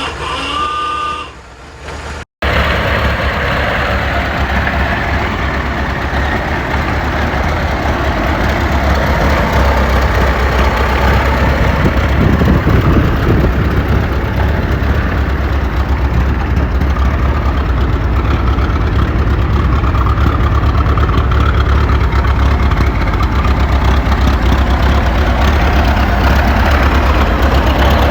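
Ford Model T's four-cylinder engine running steadily and loudly. A short, quieter stretch cuts off abruptly about two seconds in, and the engine sound follows.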